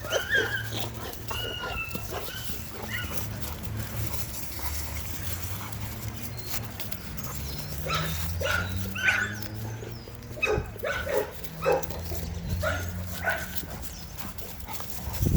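Several dogs whining and yipping while they play rough together, with a run of short sharp yips and barks in the second half, over a steady low hum.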